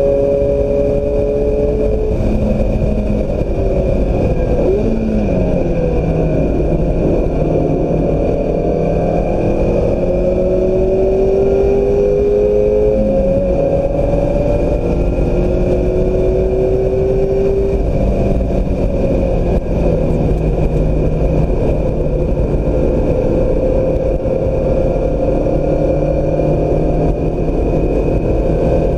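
2016 Mazda MX-5 Miata's four-cylinder engine driven hard around a track, its pitch climbing slowly under load and dropping back a few times as the car brakes or shifts. A steady rush of wind and road noise runs underneath.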